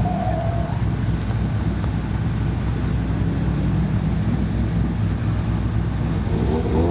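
Car engine running steadily with a deep, even drone.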